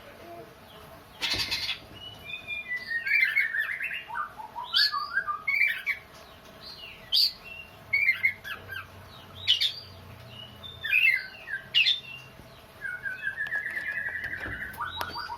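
Oriental magpie-robin singing a varied string of short whistled and harsh phrases, the song likened to a child sobbing, with a brief noisy rasp about a second in and a fast run of repeated notes near the end.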